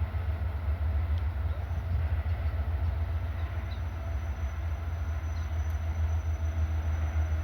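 CSX freight train moving slowly, with a steady low rumble.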